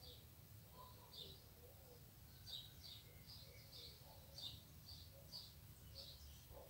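Faint bird chirping: a string of short high chirps, roughly two a second after the first second or so, over a low steady background noise.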